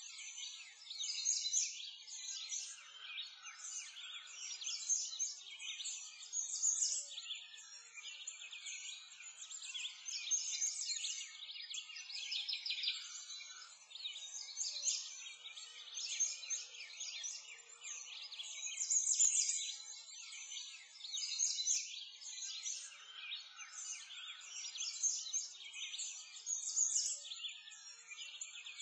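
Dense chorus of many small songbirds chirping and trilling without a break, the calls swelling and fading every second or two.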